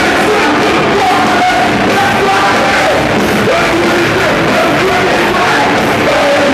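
Live rock band playing loudly, with yelled singing over it.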